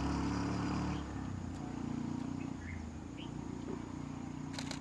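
A vehicle engine idling with a low, steady hum, loudest in the first second. A few short, high chirps come over it, and a quick run of sharp clicks near the end.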